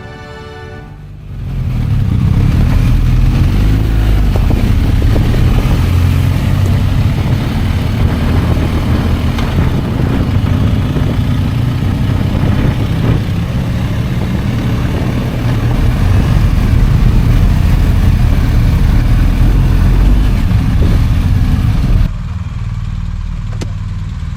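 A motorcycle running on the move, a loud, steady low rumble that starts about a second and a half in and drops to a lower level near the end. Music plays briefly at the start.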